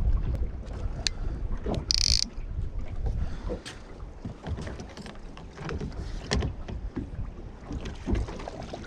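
Wind buffeting the microphone and water moving around a drifting boat, with scattered light knocks and a brief hiss about two seconds in.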